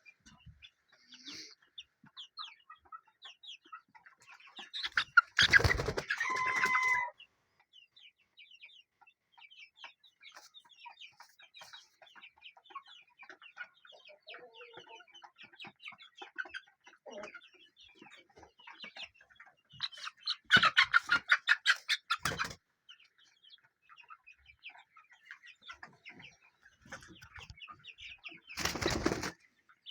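A flock of chickens clucking and chirping, with three loud outbursts about five seconds in, around twenty seconds in and just before the end.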